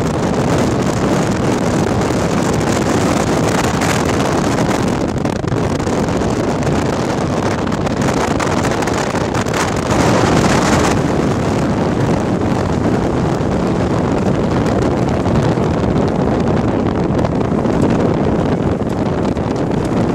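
Strong wind buffeting the microphone: a loud, steady rushing that gusts a little stronger about halfway through.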